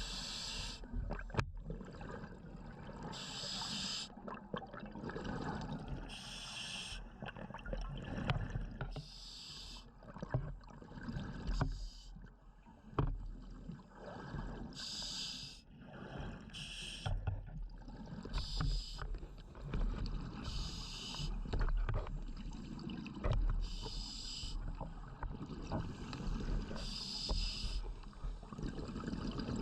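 A scuba diver breathing through a regulator underwater: a short hiss every few seconds, with low bubbling and rumble in between.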